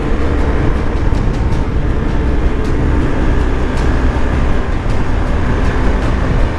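BMW R 1250 GS Adventure's boxer-twin engine running at a steady cruising speed, with wind and road noise.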